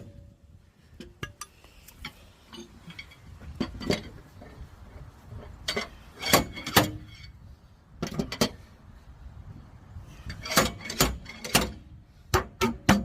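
Metal hand tools clinking and knocking against a car's damaged rear body during collision repair: irregular sharp clicks and taps that come in small clusters every second or two.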